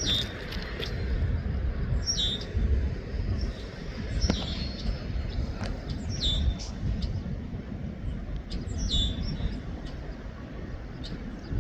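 A bird repeatedly giving a short, downward-sliding chirp, about once every two seconds, over a steady low rumble.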